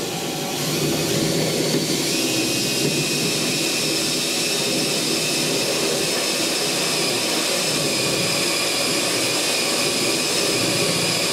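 Drill spinning a 3/8-inch spot weld cutter through a spot weld in the truck's roof sheet metal: a steady, loud motor whine, rising slightly in pitch about two seconds in.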